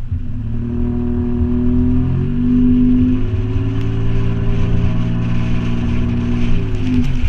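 Toyota 4Runner engine with a Flowmaster 40 Series exhaust, holding a steady engine speed with a deep, even exhaust drone. The pitch shifts slightly about two seconds in and drops a little near the end.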